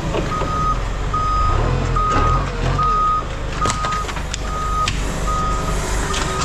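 Reversing alarm of a heavy machine beeping steadily, a single high tone a little more than once a second, over the low rumble of its diesel engine, with a few metallic knocks around the middle.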